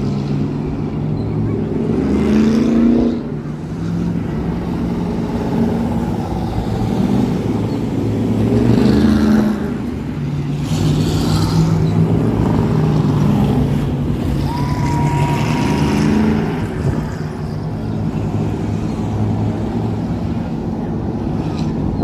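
Thunder Truck race engine running hard at speed, its revs climbing three times as it accelerates.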